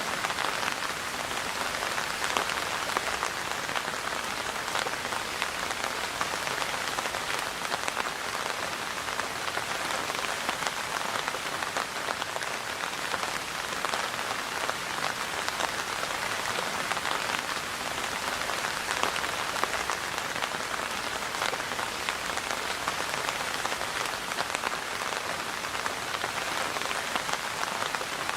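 Steady rain falling, a dense even patter of many drops striking a surface.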